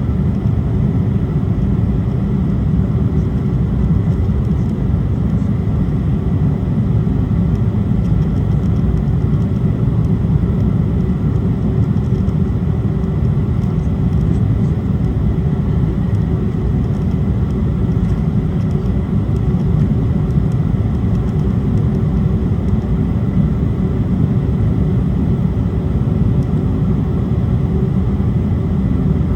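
Steady cabin noise inside an Embraer E175 in flight: a low, even rumble of the CF34 turbofan engines and airflow, with a faint steady high whine over it.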